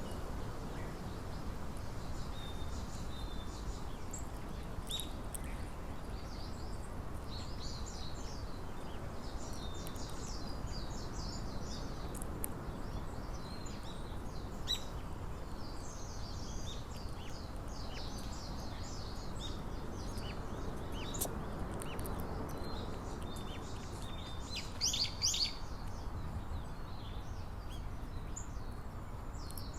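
Small wild birds chirping and calling off and on, short high notes, over a steady low outdoor background hum. A louder run of chirps comes about 25 seconds in.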